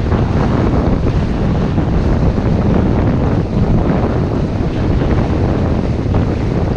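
Wind buffeting the microphone, a steady loud rumble, with water rushing past a sailboat under way.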